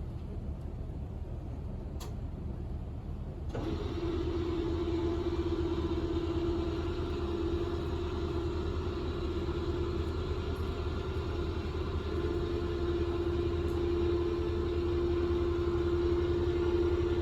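Motor ship's engine running with a steady low rumble; about three and a half seconds in the sound abruptly gets louder and a steady hum joins it.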